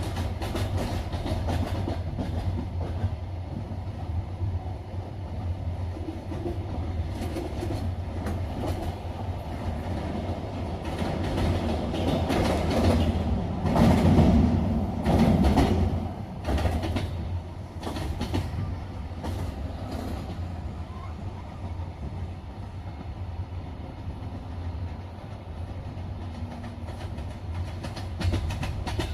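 Double-decker passenger train running on the rails, heard from inside the carriage: a steady low rumble with the wheels clicking irregularly over the rail joints. It grows louder for a few seconds about halfway through.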